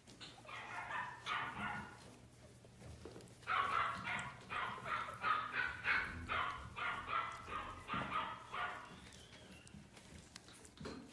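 Biewer terrier puppies yipping and whining: a short burst of calls at the start, then a longer run of quick, repeated high yips that dies away near the end.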